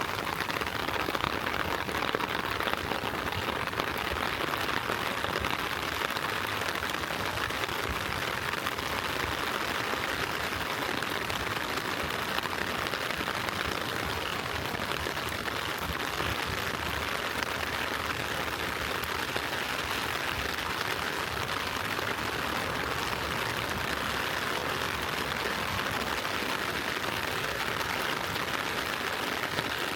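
Steady rain falling on street and pavement: an even, unbroken hiss.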